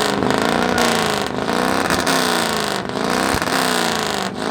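Modified car engine revved hard again and again through a loud performance exhaust. The pitch climbs and drops back in quick, repeated revs, with a sharp pop a little past three seconds in.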